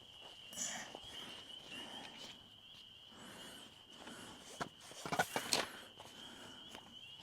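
Camping gear being handled and packed: a few quiet rustles and knocks, then a cluster of sharp clicks and knocks about five seconds in, the loudest part. Under it runs a steady high insect trill.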